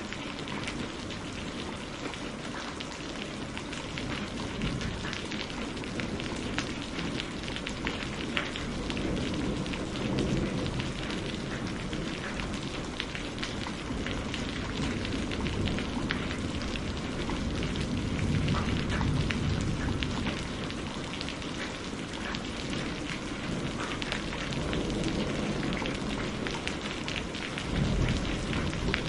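Steady rain falling, full of fine patter, with low rumbles that swell and fade several times.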